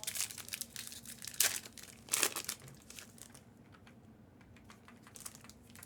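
Plastic wrapping crinkling as it is handled, with scattered sharp crackles and two louder bursts in the first half, fading to faint room noise after about three seconds.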